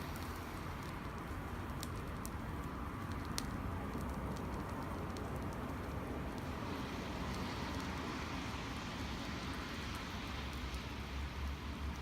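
Wood campfire burning with a crackle of scattered sharp pops, over a steady low rumble that swells near the end.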